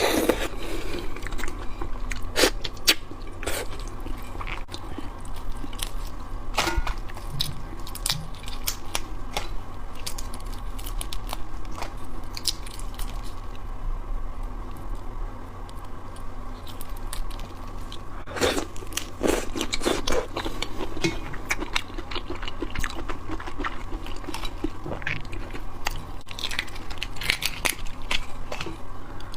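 Close-up chewing and crunching of raw shrimp: wet mouth sounds with many scattered sharp clicks and cracks, busiest just past the middle and again near the end.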